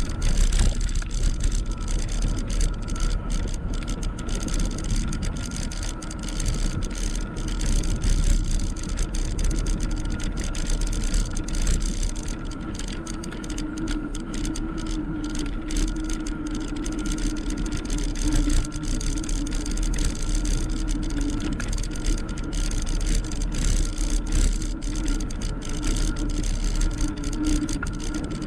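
Riding noise from a Gtech electric bike: wind rumbling on the action camera's microphone and tyres running on the road, with a steady motor whine that gets stronger about halfway through.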